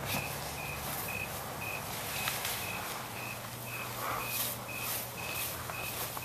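A cricket chirping steadily, about two short chirps a second, over background hiss; a low steady hum comes in about three seconds in.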